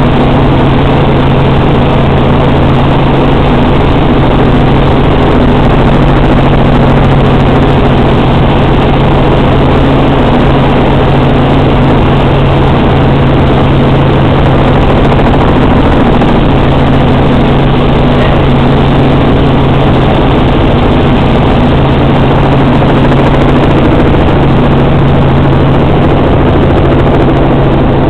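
Robinson R44 Raven I helicopter in flight: a loud, steady drone of its piston engine and rotors with a strong constant low hum.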